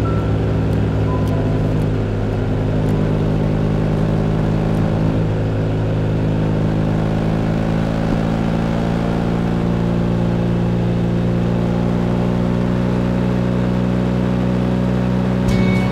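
Motorcycle engine running at a steady cruising speed, its pitch holding nearly constant throughout.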